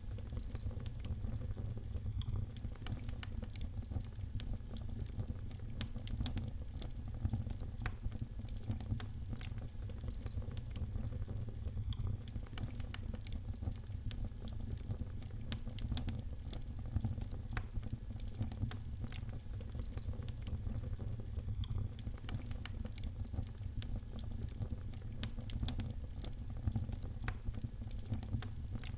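Wood fire crackling in a fireplace: a steady stream of small sharp pops and snaps over a low, even rumble.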